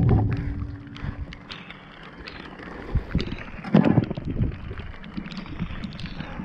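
Knocks, clunks and rattles of scrap being handled and shifted in a skip. A loud thump at the start leaves a ringing tone for about two seconds, and another heavy clunk comes near the middle. Everything is muffled and distorted by a waterlogged GoPro microphone.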